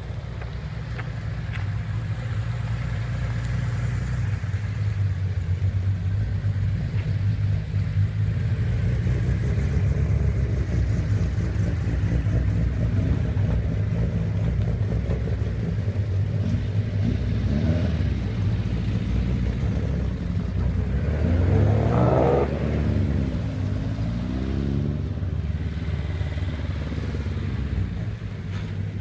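Classic Nissan car engine with a loud aftermarket exhaust running at idle, then revved several times in the second half. Each rev rises and falls, and the strongest comes about two-thirds of the way through.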